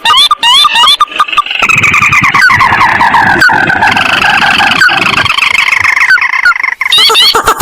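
Lure recording of swamp birds calling. At the start and the end, short rising notes repeat quickly. In between, a dense run of overlapping calls plays, with a rough low rumble under it.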